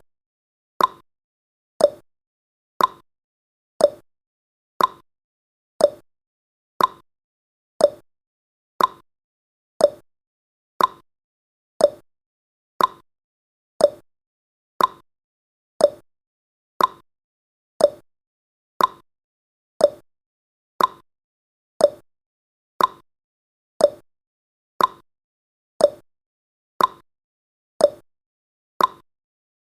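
Countdown timer's clock-ticking sound effect: one sharp tick every second, alternating between a higher and a lower tick in a steady tick-tock.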